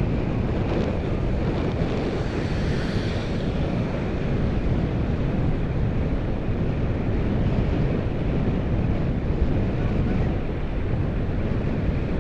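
Steady wind noise rushing over the microphone of a moving bicycle, heavy and low, with the hum of the ride underneath.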